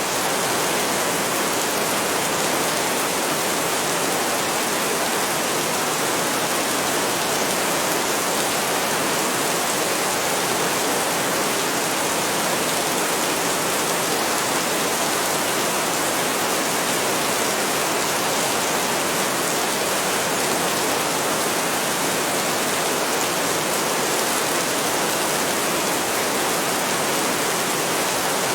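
Heavy rain falling steadily: a dense, even hiss with no thunder or breaks.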